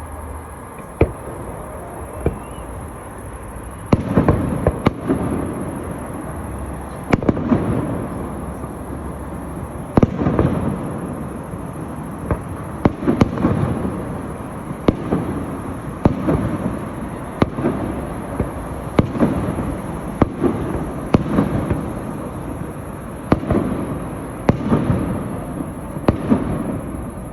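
Fireworks exploding, a sharp bang every second or two, each followed by a lingering rumbling echo.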